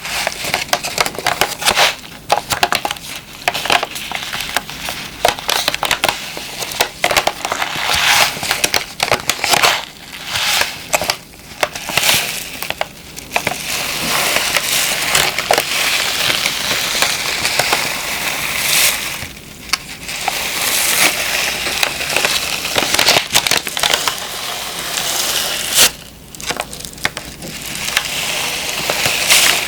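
A moisture-removal (dehumidifier) pack being squeezed and crumpled close to the microphone: dense, continuous crinkling and crushing, with a few brief lulls.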